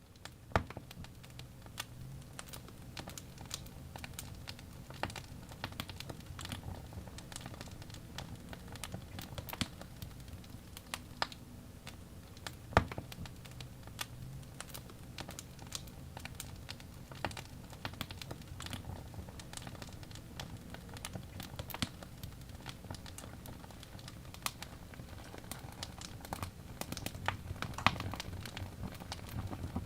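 Wood fire in a fireplace crackling and popping: irregular sharp pops of burning logs over a steady low rumble of the flames, with a few louder snaps.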